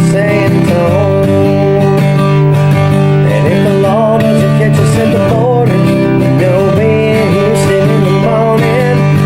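Acoustic guitar playing an instrumental break in a country song: steady strummed chords under a melody line that bends in pitch.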